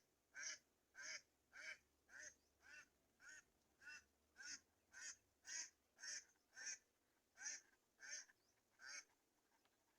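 Black-winged kite calling: a short harsh call repeated about twice a second, some fifteen times, stopping near the end.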